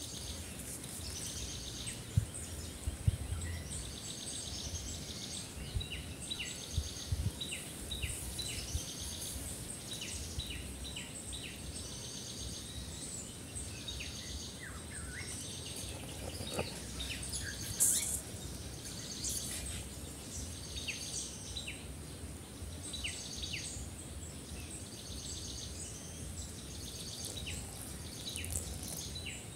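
Outdoor ambience of birds singing, short high chirping phrases repeated every second or two over a steady background hiss, with a few low bumps in the first several seconds.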